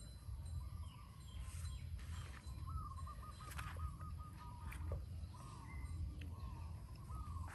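Birds calling: short warbling calls, with one rapid trill lasting about a second and a half from about three seconds in. Under them is a steady low rumble, and a few light taps and clicks come through.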